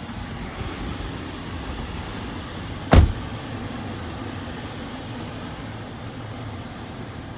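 Steady background noise, with one sharp thump about three seconds in.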